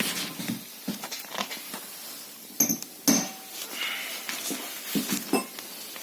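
Metal tools and parts being handled during a brake caliper repair: irregular clinks and knocks, a couple of them ringing briefly about two and a half to three seconds in.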